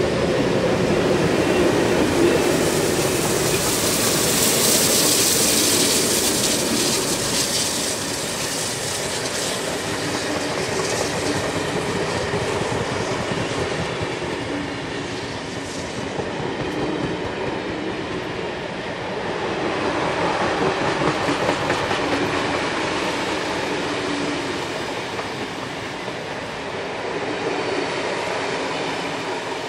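A passenger train passing close by. The streamlined diesel-electric locomotives are loudest at the start, then a long rake of passenger carriages rolls past, wheels clicking over the rail joints.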